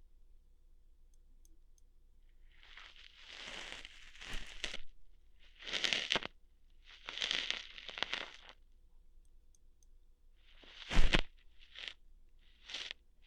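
Close-up ASMR ear-hair plucking sounds: a series of crunchy, rustling scrapes and pulls, with a sharp loud crack about 11 seconds in and two short snaps after it.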